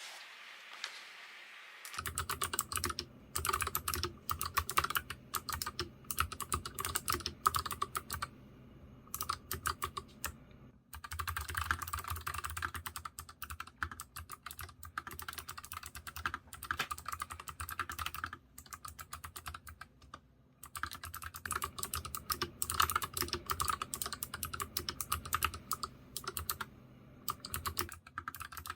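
Fast typing on a NuPhy Air75 low-profile mechanical keyboard with clicky Gateron blue switches, a dense run of key clicks. It starts about two seconds in, after a fainter stretch of noise, and pauses briefly a few times.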